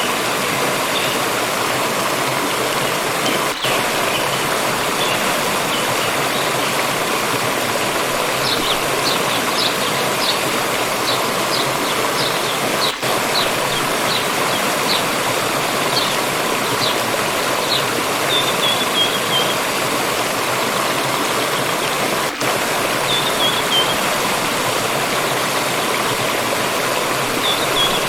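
Steady rushing of a flowing stream. A small songbird gives a run of short high chirps, a little under two a second, through the middle, then a few short falling trills toward the end.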